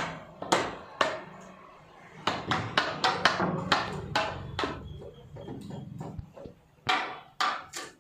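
Carpentry hammering: irregular sharp blows of a hammer on wood, a few spaced knocks, then a quick run of blows in the middle, then a few more near the end.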